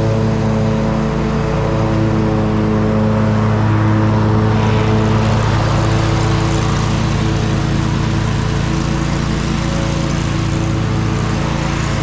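Riding lawn mower engine running steadily under load, with a rushing noise that grows louder about four seconds in.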